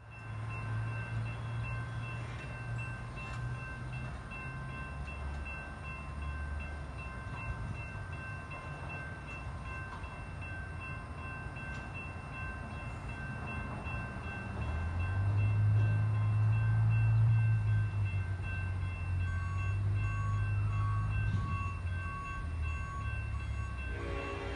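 Freight train pulled by diesel locomotives going by: a steady low engine rumble that swells about 15 seconds in, with steady high tones above it.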